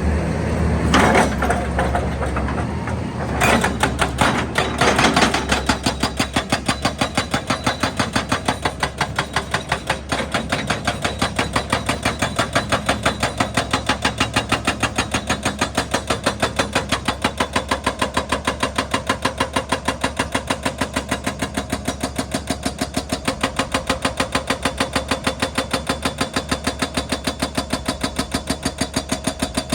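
Excavator-mounted hydraulic breaker hammering rock in a fast, even train of blows, starting about three seconds in, over the running diesel engine.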